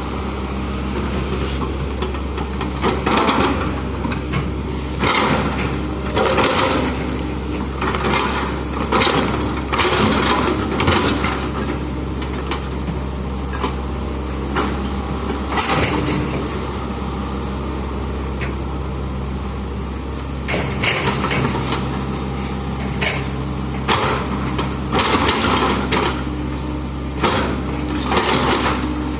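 Excavator's diesel engine running steadily, with repeated short bursts of hissing, clattering noise every second or two as the machine works.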